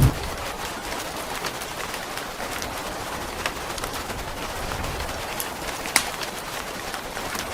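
Steady rain hiss with an occasional sharp crackle from a wood fire, clearest about six seconds in.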